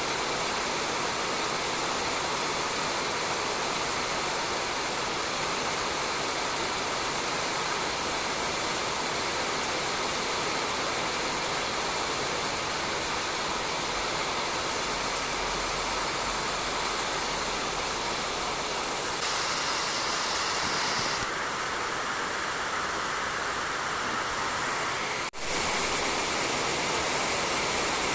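Steady rain falling on a roof, a dense, even hiss with no single drops standing out, broken by a momentary dip near the end.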